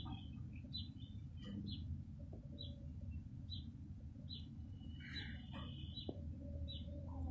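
A bird chirping, short high chirps repeating at fairly even spacing about once a second, over a steady low rumble.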